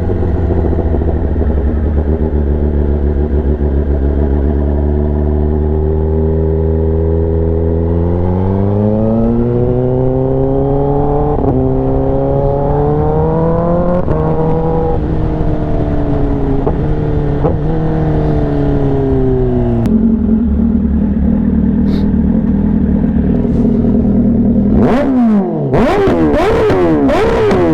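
Kawasaki ZX-10R's inline-four engine through an SC-Project exhaust. It runs at a steady note, then climbs in pitch for several seconds with a brief dip partway, and eases back down. Near the end come sharp cracks and quick up-and-down swings in pitch.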